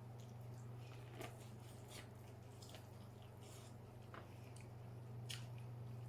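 Close-miked mouth sounds of a person chewing seafood: faint wet smacks and clicks every second or so, over a steady low hum.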